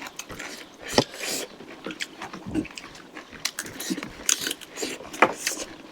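Close-up eating sounds from a chicken curry meal: chewing and biting with irregular sharp clicks and wet smacks, the loudest about a second in and near the end.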